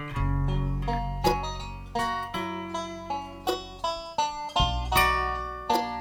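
Live bluegrass band playing an instrumental passage with no singing: plucked string notes in quick succession over low bass notes, with the whole band coming in loudly right at the start.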